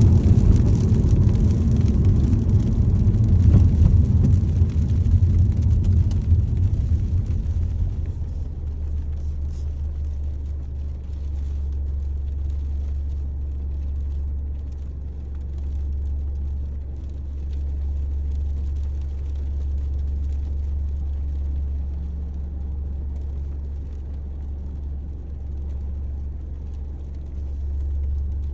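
Car road noise heard from inside the cabin while driving: a loud low rumble with tyre hiss for about the first eight seconds, then it drops to a quieter, steady low hum.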